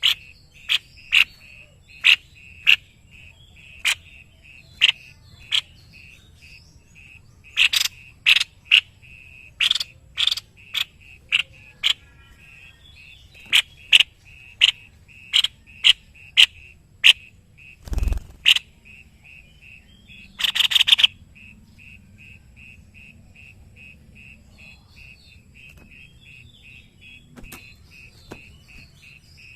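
White-bibbed babbler calling: a string of sharp, loud call notes, roughly one or two a second, over most of the first two-thirds, with a harsh rattling burst about two-thirds of the way in. A fast, steady pulsing chirp runs underneath throughout, and a single low thump comes a little past the middle.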